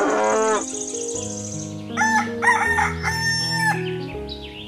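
A rooster crowing, cock-a-doodle-doo, about two seconds in, over background music.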